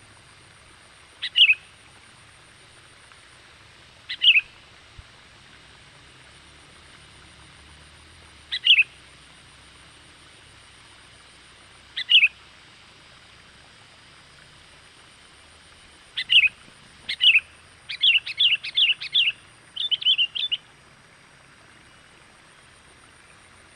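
Sooty-headed bulbul (kutilang) lure call: single short chirps that slide downward, repeated every three to four seconds, then a quick run of about eight chirps near the end.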